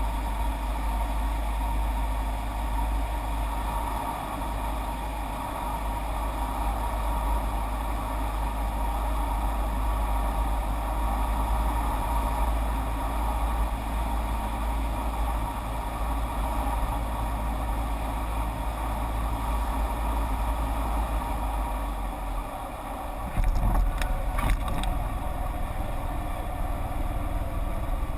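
Strong wind rumbling on the microphone over the steady drone of a light propeller aircraft's engine, with a few sharp knocks about 24 seconds in.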